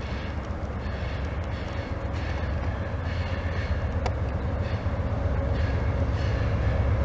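An approaching Amtrak train: a low rumble that grows steadily louder.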